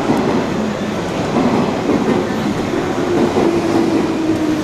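Green JR West electric commuter train running along a station platform: rumbling wheels with a steady whine that slowly drops in pitch over the second half.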